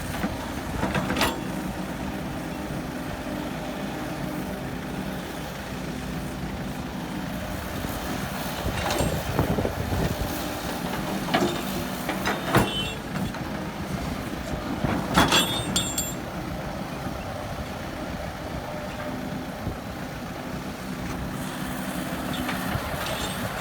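Heavy truck or earthmoving machine diesel engine running steadily, with several sharp metallic clanks now and then.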